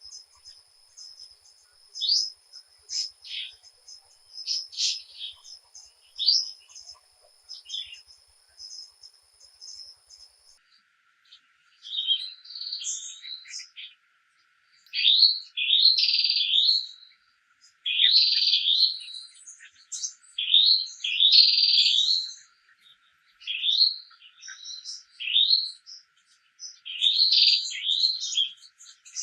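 Wild birds chirping and calling, at first over a steady high insect drone. About a third of the way in the drone cuts off abruptly, and louder repeated bird phrases follow, each a second or so long, over a faint low hiss.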